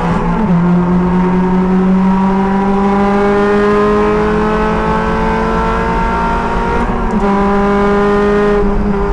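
Race car engine pulling hard under full throttle, its pitch climbing slowly through one gear. Near the end it breaks for a quick gear change and then climbs again, heard with road and wind noise from inside the car.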